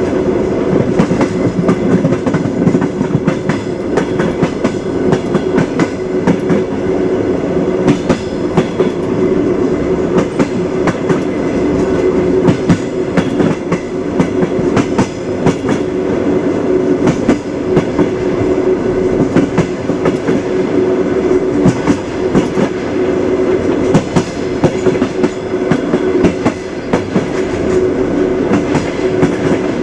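A moving train: the wheels clack over the rail joints, irregular sharp knocks over a steady rolling rumble with a constant hum.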